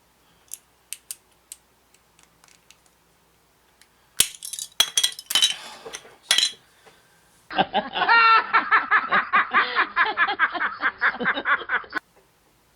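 Small plastic model parts clicking and clinking as they are handled, with a louder clatter about four seconds in; then, from about halfway, a person laughing in rapid ha-ha-ha pulses for about four seconds, sounding thin and cut short as if from a dropped-in clip.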